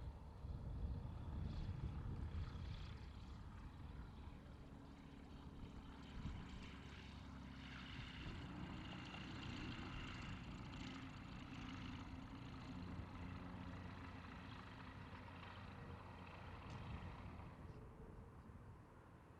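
Light propeller aircraft's piston engine running, loudest in the first few seconds, then steady, fading away near the end.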